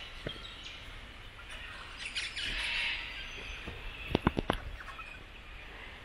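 Birds chirping over steady outdoor background noise, with a quick run of about four sharp clicks a little after four seconds in.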